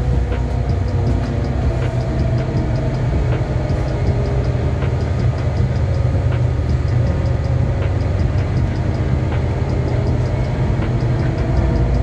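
Steady low vehicle rumble heard from inside, with a faint, regular light ticking over it.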